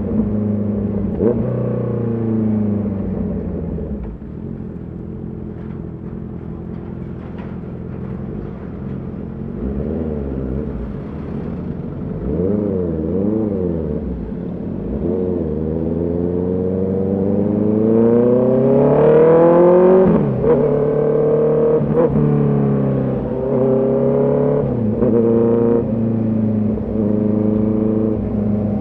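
Honda CB650R's inline-four engine on the move: revs falling off at first, then running lighter with a few short wavers in pitch. About sixteen seconds in, a long rising pull climbs for some four seconds and drops sharply, as at an upshift. It then runs on with smaller rises and falls.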